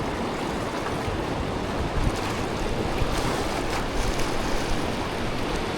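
Steady rush of river rapids, an even wash of water noise with light wind on the microphone.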